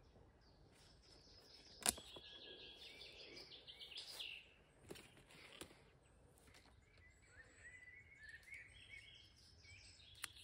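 Songbirds singing in the background, with repeated trilling phrases in two spells. A single sharp click about two seconds in is the loudest sound, with a few fainter clicks later.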